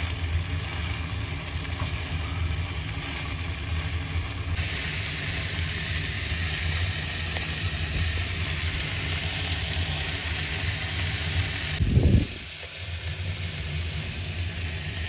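Marinated elk fajita meat sizzling in a hot frying pan. The sizzle grows louder about four and a half seconds in and drops back near the end with a short low thump. A steady low hum runs underneath.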